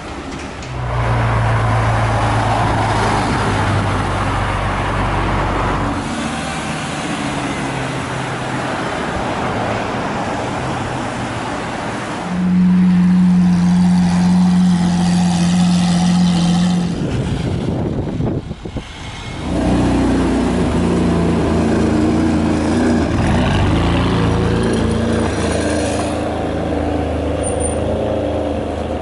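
Supercar engines in a run of short clips. First a car's engine runs in an underground car park. About twelve seconds in, a matte-black Lamborghini Aventador's V12 is held at one steady note for several seconds, the loudest part. After a short dip, a white Ferrari's engine pulls away.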